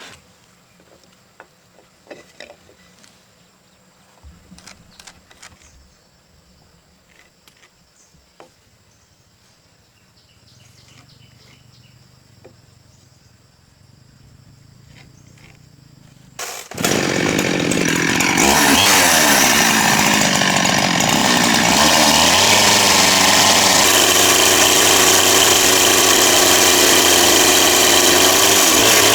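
Faint clicks and handling noises, then about two-thirds of the way through a chainsaw starts suddenly and runs loudly at high revs, its pitch dipping once and recovering.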